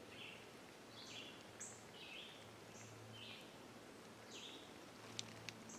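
Faint bird chirps, short high notes coming about every half second over quiet woodland background, with two light clicks near the end.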